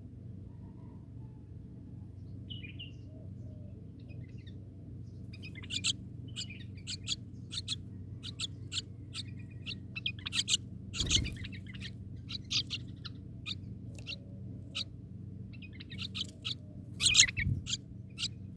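Bird giving many short, sharp chirps in quick, irregular runs, starting about five seconds in and loudest near the end, over a steady low hum.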